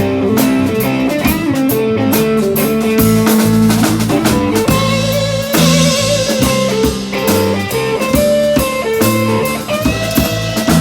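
A band plays an instrumental break in a blues-rock song: guitars, bass and a drum kit. From about four seconds in, a lead line plays held notes that waver in pitch.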